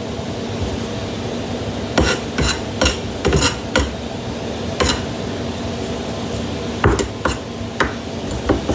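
Irregular clatter of kitchen utensils and dishes: about a dozen sharp knocks, bunched together a couple of seconds in and scattered near the end, over a steady hum.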